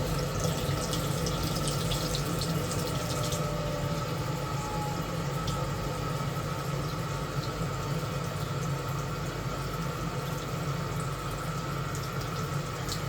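Water running steadily, as from an open tap, over a low steady hum, with light crackling in the first few seconds.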